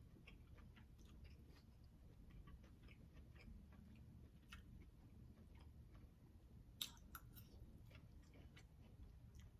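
Faint chewing and mouth sounds, with scattered soft clicks and one slightly louder click about seven seconds in, over a low room hum.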